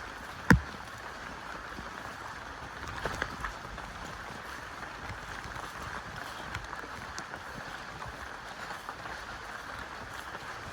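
Steady rushing of a rainforest waterfall, with one sharp knock about half a second in and a couple of faint clicks a few seconds later.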